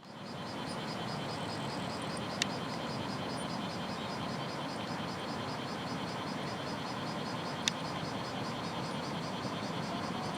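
Insects chirring in a fast, even pulse of high chirps over a steady rushing noise, with two sharp clicks about five seconds apart.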